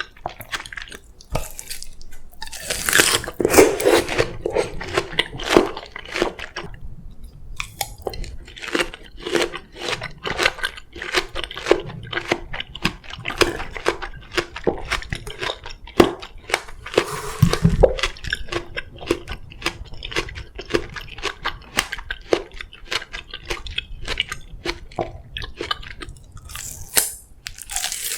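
Close-miked crunching and chewing of crisp Korean melon (chamoe): a steady run of small wet crackles, with a few louder crunching bites.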